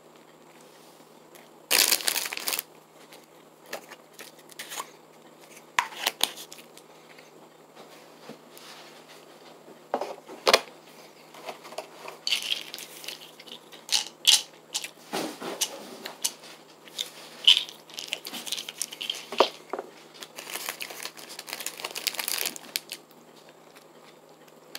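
A person biting into and chewing a chicken salad sandwich on a soft bread croissant close to the microphone. There is a loud bite about two seconds in, then irregular chewing noises.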